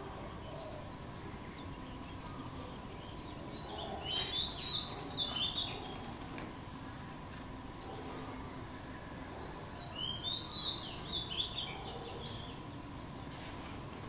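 A small bird's twittering chatter of quick, high, changing notes, in two bursts of about two seconds each, the first about four seconds in and the second about ten seconds in.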